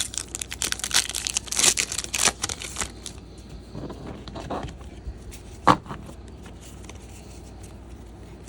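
Foil wrapper of a trading-card pack being torn open and crinkled for about three seconds, followed by light card handling with one sharp tap near the middle.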